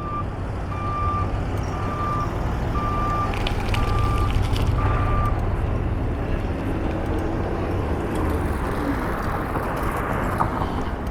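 A vehicle's backup alarm beeping at an even pace, roughly seven beeps that stop about five seconds in, over a steady low rumble of vehicle engines.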